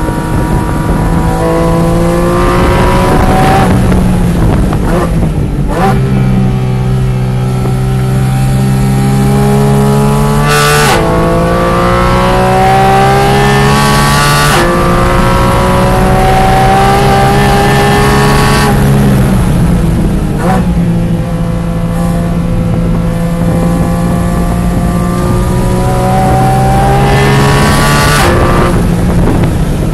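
Porsche 718 Cayman GT4 RS's naturally aspirated 4.0-litre flat-six, heard from inside the car at speed on track. The pitch climbs again and again, broken by quick gear changes, and the revs drop near the end as the car slows.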